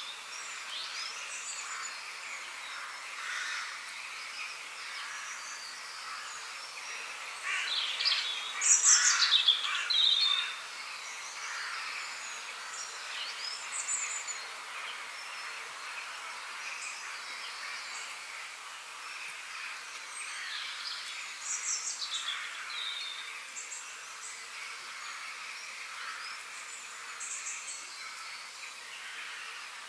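Several birds singing and calling in a mix of short chirps and quick falling trills over a steady hiss of background noise. One bird sings louder and closer about eight to ten seconds in.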